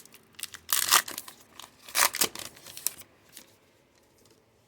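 Cardboard trading cards being handled and slid off a stack, with several sharp papery swishes and flicks in the first three seconds, then quiet handling.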